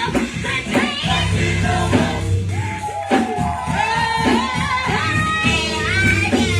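Gospel choir singing with band accompaniment, sung lines gliding in pitch over a steady bass and a beat.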